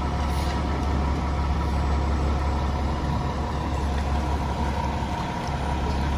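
Heavy truck's diesel engine idling steadily with a deep low hum, the level dipping briefly about five seconds in.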